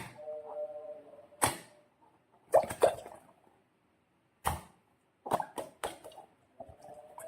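Slime and balloons being handled: a series of separate sharp clicks and taps, a few followed by brief steady tones, with quiet gaps between.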